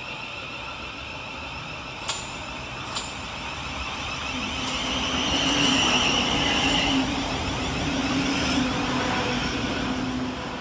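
Class 700 Thameslink electric multiple unit moving through the station, its traction motors whining over wheel and rail noise, with two sharp clicks about two and three seconds in. The whine grows louder about four to six seconds in.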